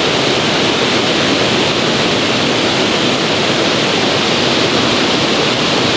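Waterfall pouring steadily, a loud, even rush of falling water with no break.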